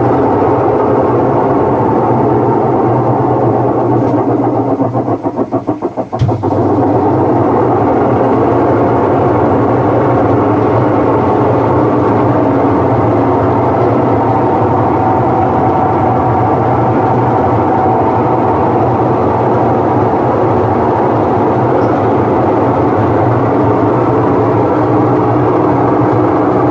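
Whirlpool washing machine running with a loud, steady mechanical drone and hum, the abnormal noise that is its fault. About five seconds in the noise briefly pulses and dips, with a sharp click near six seconds, before the steady drone resumes.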